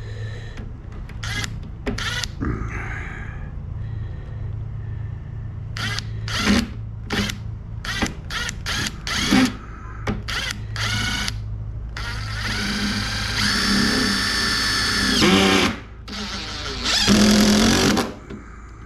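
Power drill driving screws: a series of short trigger pulls, then two longer runs of a few seconds each near the end. A steady low hum sits underneath.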